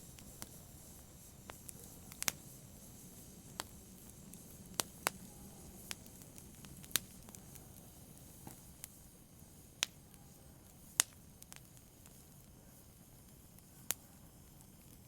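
Wood fire crackling, with sharp irregular pops over a low steady hiss of burning.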